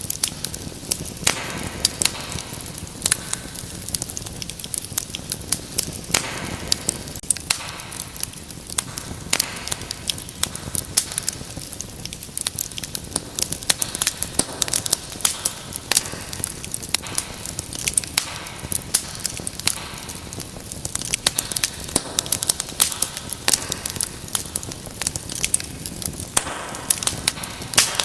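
Wood fire in a fireplace crackling and popping: many sharp snaps over a steady hiss of flame, busier in patches.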